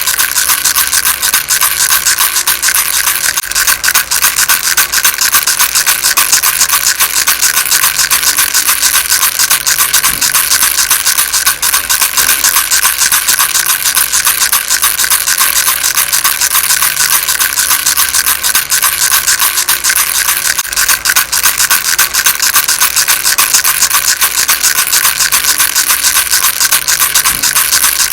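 Baby rattle shaken without pause: a steady, fast, dense rattling, mostly high-pitched.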